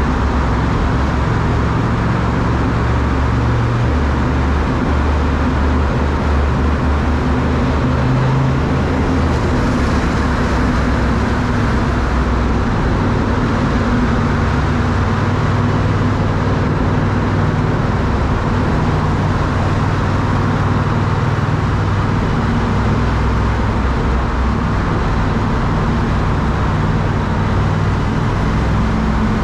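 Triumph Speed Twin's parallel-twin engine running steadily while riding, its note shifting a little with throttle, over a constant rush of road and wind noise.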